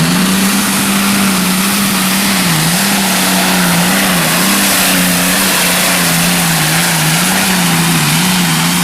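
A pulling tractor's engine running at full throttle under heavy load down the track, its pitch holding high with small repeated dips and recoveries as the sled loads it.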